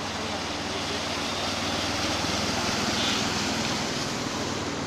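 Steady rush of flowing rainwater, with a low steady hum underneath.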